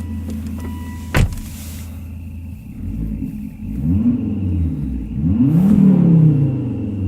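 Volvo S80's 2.5-litre turbocharged inline-five, running with its muffler deleted and heard from inside the cabin: it idles steadily, then is revved twice, rising and falling in pitch about four seconds in and again near six seconds, the second rev the louder. A single sharp knock sounds about a second in.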